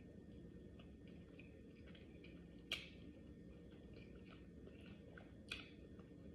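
Quiet eating sounds: faint chewing and small mouth clicks over a low room hum, with two sharper clicks about three seconds and five and a half seconds in.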